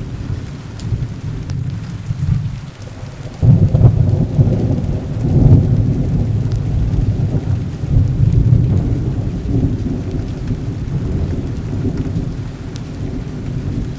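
Heavy rain with rolling thunder: a deep rumble breaks in sharply about three and a half seconds in and goes on rumbling, easing off toward the end.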